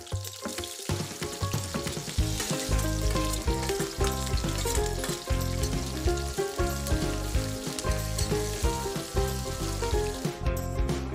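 Sliced onions and green chillies sizzling in hot oil in a wok while a spatula stirs them, under background music. The sizzle thins out near the end.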